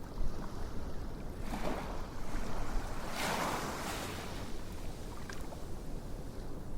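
Ocean waves washing in over a steady low rumble, with two louder swells about a second and a half and three seconds in.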